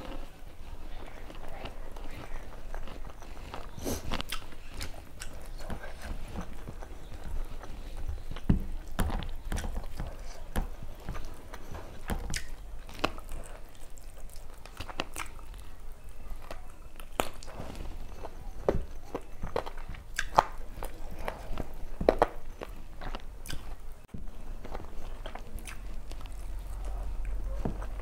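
A person eating close to the microphone: chewing and biting, with irregular sharp clicks and occasional crunches.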